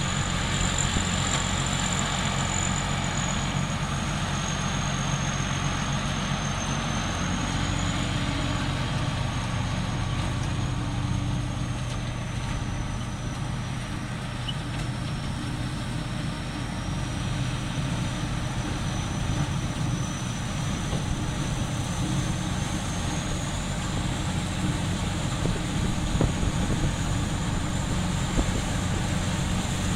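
Rice combine harvester running steadily at work, cutting lodged rice. A continuous engine drone sits under a thin, high machinery whine that drifts slowly up and down in pitch.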